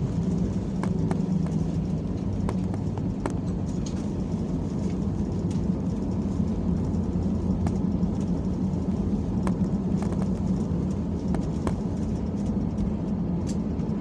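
Steady low rumble inside the cabin of an Airbus A320 rolling on the ground just after landing, with scattered light clicks and rattles from the cabin fittings.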